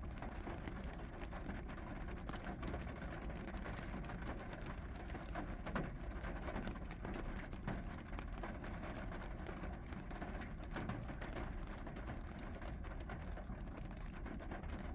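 Steady rain falling, with many separate drop ticks over an even hiss and a low rumble underneath.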